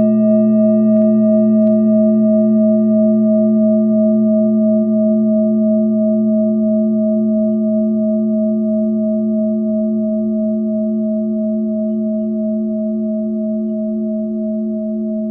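Singing bowl ringing on after a strike, several tones held together and slowly fading, with a steady pulsing waver.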